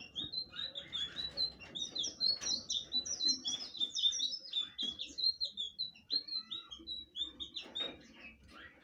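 Blue flycatcher (sikatan biru) singing a long, rapid song of short, high, slurred notes, stopping near the end.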